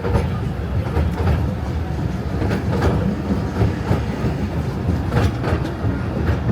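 Theme-park ride train running along its track: a steady low rumble with irregular sharp clacks of the wheels over the rails.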